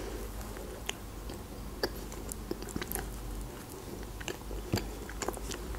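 Close-miked chewing of a soft croissant, with a scattering of small crackles and mouth clicks.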